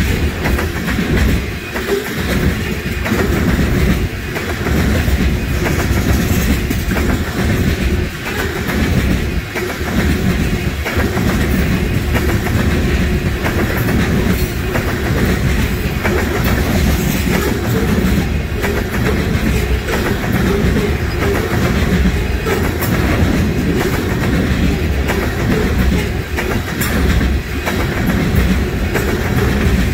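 Freight train of tank cars rolling past close by: steady noise of steel wheels on the rails, with a clickety-clack as the wheels pass over rail joints.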